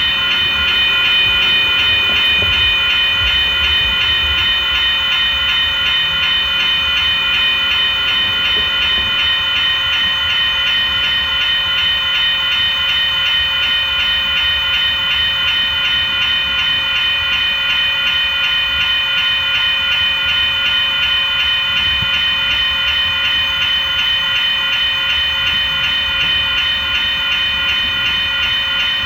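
A train running past, with a low rumble under steady, high-pitched ringing tones that hold for the whole stretch.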